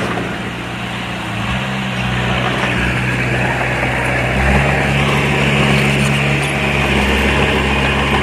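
Heavy diesel engine of earthmoving machinery running steadily. About halfway through, its pitch and loudness rise a little.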